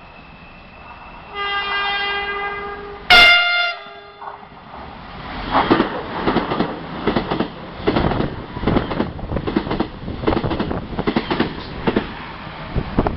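Train horn sounding a held note, then a short, very loud blast, followed by the train passing through with its wheels clattering rhythmically over the rail joints.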